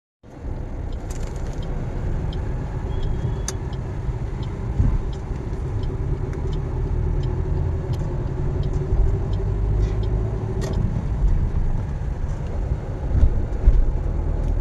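Car on the move: a steady low engine and road rumble, with scattered faint clicks and ticks.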